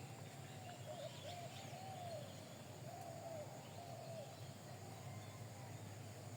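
Birds calling: a string of short, low, rising-and-falling notes, with faint high chirps over them.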